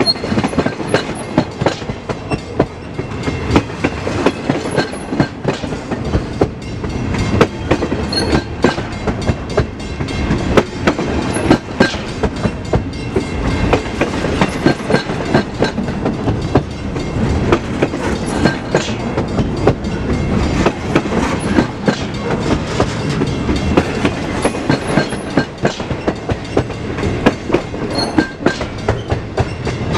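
Freight train rolling past, its wheels clicking over the rail joints in a steady run of sharp clicks.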